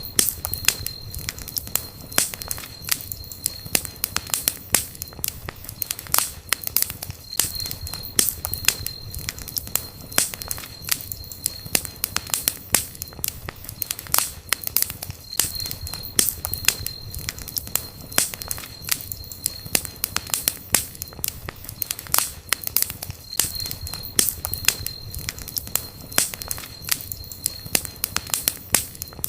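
Wood campfire crackling and popping, with frequent sharp snaps over a low rumble. A faint high whistle comes and goes every few seconds.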